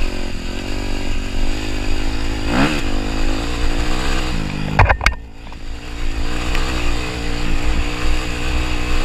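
Dirt bike engine running under way, revving up and back down about two and a half seconds in. A couple of sharp knocks come about halfway through, followed by a brief dip in the engine sound before it picks up again.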